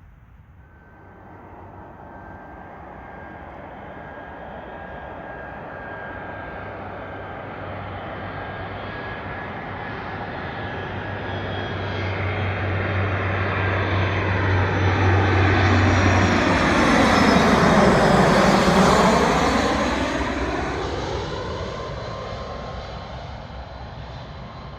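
A jet airliner on landing approach flying past. Its engine noise builds steadily, peaks about three quarters of the way through, then fades, with a whine that drops in pitch as it goes by.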